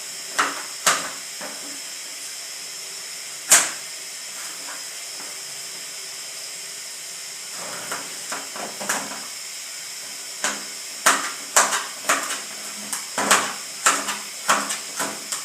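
Blunt kitchen knife cutting small pieces of carrot and onion by hand, a sharp click with each cut. There are a few cuts early, a pause, then a run of about two a second over the last five seconds, all over a steady hiss.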